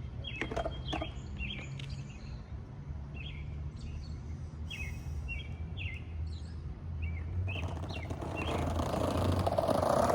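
Small birds chirping in short calls over a steady low rumble. From about three-quarters of the way in, a skateboard's wheels rolling on pavement grow steadily louder as the board approaches.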